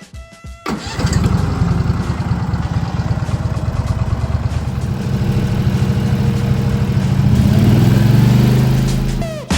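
Brush cutter's small engine running, speeding up a little near the end before it stops.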